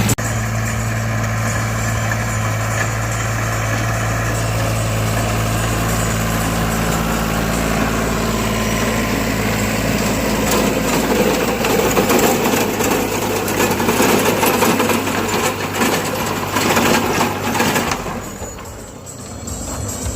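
New Holland tractor's diesel engine running steadily, its note growing rougher in the second half and fading down near the end.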